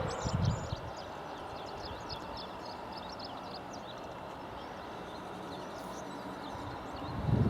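Small birds chirping in quick, repeated short notes over a faint steady background hum. Wind buffets the microphone at the start and again near the end.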